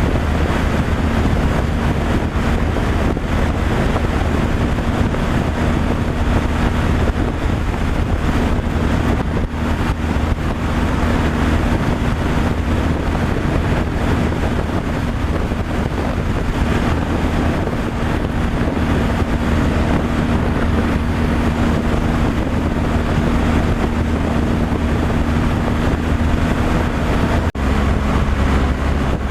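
Truck on the road, its engine running steadily under road and wind noise. Near the end the sound briefly dips and the engine's note shifts.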